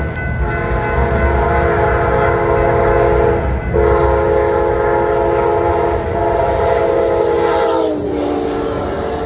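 Train air horn sounding a long multi-note chord, broken briefly about three and a half seconds in, then dropping in pitch near the end as the train passes, over the low rumble of the train.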